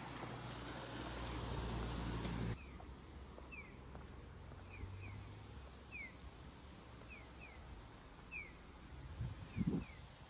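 Water splashing and running off a small wooden water wheel turning in a roadside channel, which cuts off abruptly after about two and a half seconds. Then comes an electronic pedestrian-crossing signal of short falling bird-like 'piyo' chirps, alternating one chirp and two, roughly once a second. A brief low thump comes near the end.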